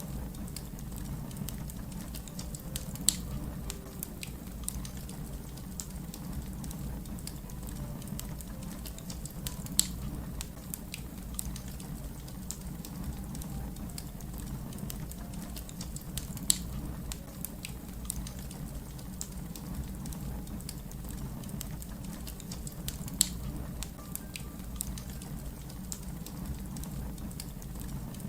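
Wood fire crackling: a steady low rumble with many small scattered crackles and, every six or seven seconds, a sharper pop.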